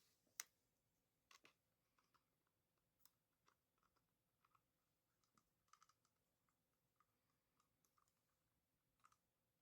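Faint, irregular small clicks and taps of a precision screwdriver and tiny screws being worked on a drone's plastic arm and metal hinge, with near silence between them.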